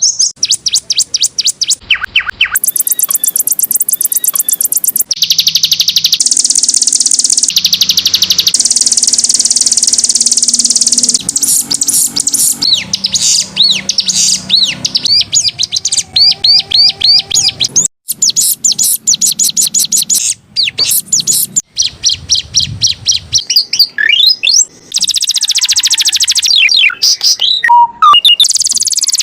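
Domestic canary singing: long rapid trills and buzzy rolls alternating with quick rising and falling chirps, loud and nearly unbroken, with a couple of sudden short breaks about two-thirds of the way through.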